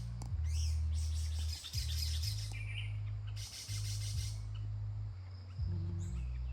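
Wild birds chirping and calling, with two bursts of dense high chatter about a second in and again past the three-second mark, over a steady low rumble.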